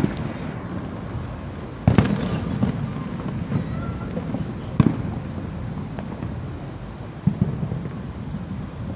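Fireworks shells bursting overhead: a handful of separate bangs, the loudest about two seconds in and followed by a brief crackle, with another sharp bang about five seconds in.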